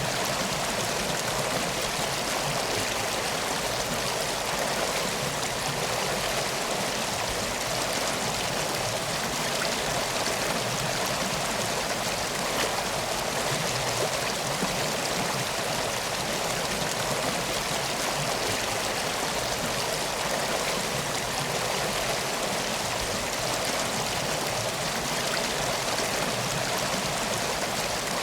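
Steady rush of flowing river water, an even wash of sound with no breaks or changes.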